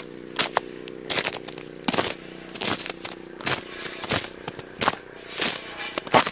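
Footsteps crunching through ice-crusted, frozen snow, one crunch about every three quarters of a second, over a steady low hum.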